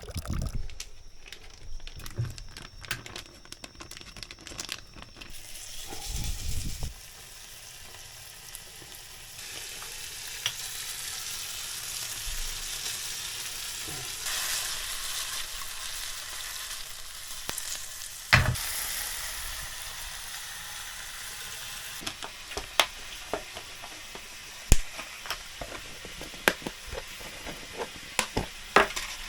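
Scallops frying in a hot pan, with a steady sizzle that sets in a few seconds in and grows louder. A sharp knock comes about two-thirds of the way through, and scattered clicks follow near the end.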